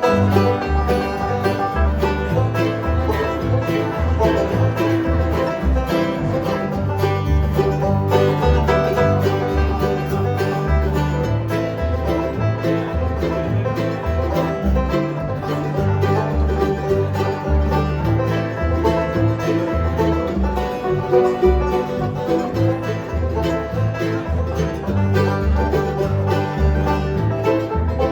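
Live bluegrass band playing an instrumental passage, with banjo picking and guitar over a steady bass line that steps between notes.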